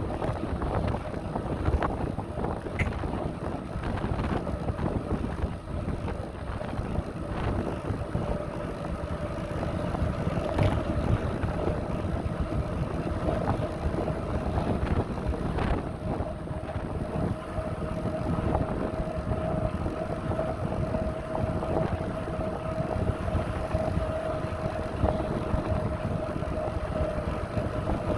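Wind buffeting the microphone over the rumble of bicycle tyres rolling along a path, with a steady faint hum running through it that comes up more clearly in the second half.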